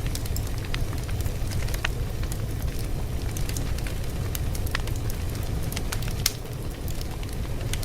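Fire crackling: many irregular sharp pops and snaps over a steady low rumble.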